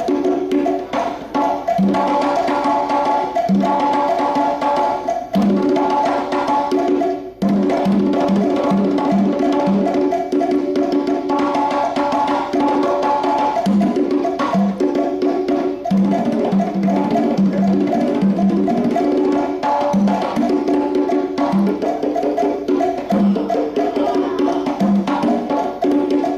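Hand percussion playing fast Cuban-style patterns: pitched conga-like drum strokes with sharp, wood-block-like clicks, over sustained pitched backing tones.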